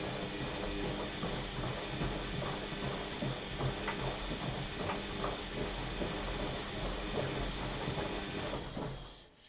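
Washing machine motor turning the drum, a steady hum with many irregular clicks and knocks over a hiss. It winds down and stops near the end.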